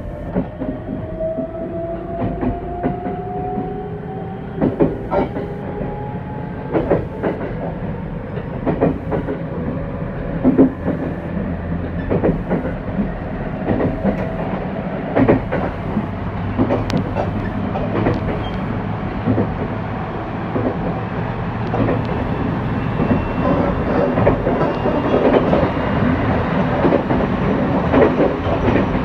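Train running noise heard from inside a passenger car: a steady rumble with the clickety-clack of wheels over rail joints. A whine rises slowly in pitch over the first several seconds as the train picks up speed.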